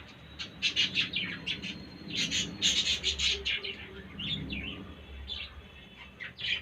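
Pet parrot chirping in a quick series of short calls, busiest and loudest about two to three and a half seconds in.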